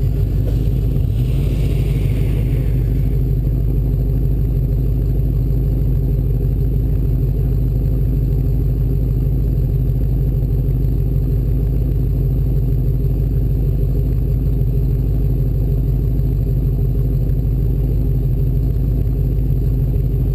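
Race Bronco's engine running steadily under way off-road, an unbroken low drone with no change in speed.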